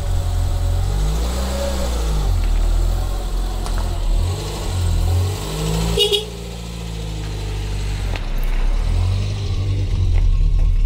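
1982 Renault 9 TLE's engine running just after starting, its pitch rising and falling a few times as it is revved. A short sharp clunk about six seconds in, after which it runs quieter.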